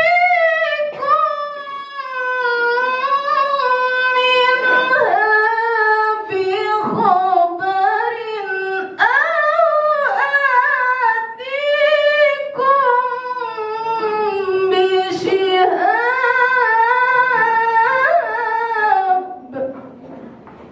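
A woman's voice reciting the Quran in melodic tilawah style, unaccompanied, in long held phrases with ornamented turns; the recitation stops shortly before the end.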